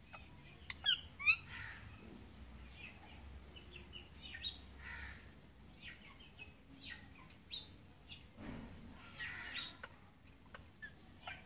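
Birds chirping: scattered short calls, with two louder rapid call sequences about a second in.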